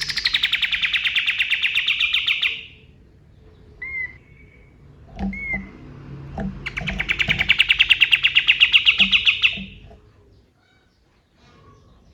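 Male kapas tembak singing: two long, very rapid trills of sharp repeated notes, each about three seconds long, with a couple of short single call notes in the gap between them.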